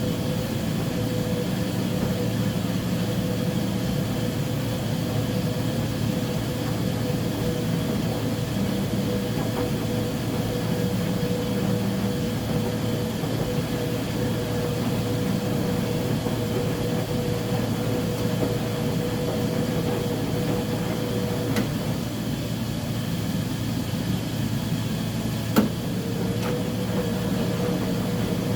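Uni-Mac UniMat 35 commercial washing machine running mid-cycle: a steady mechanical hum with a high whine. The whine drops out about two-thirds of the way through and comes back a few seconds later. A single sharp click comes just before it returns.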